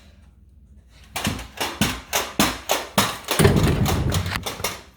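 Pogo stick knocks in a quick series, about three a second, then a louder, longer clatter as a pogo stick falls over and knocks a row of shoes down.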